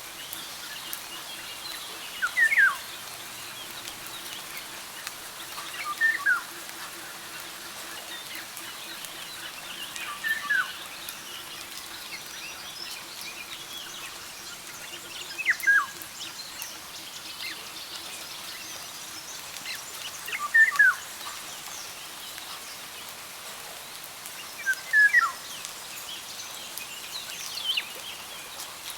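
A bird repeating a short phrase of falling whistled notes about every four to five seconds. Fainter high chirps from other birds and a steady background hiss run beneath it.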